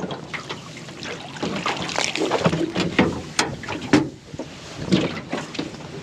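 Irregular knocks and clatter aboard a small aluminium tinny, with water slapping against the hull.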